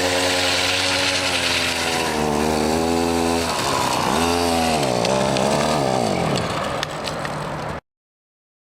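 52cc two-stroke grass-trimmer engine running at high revs, its pitch dipping sharply and climbing back a few times midway as the throttle is eased and opened again. The sound cuts off abruptly near the end.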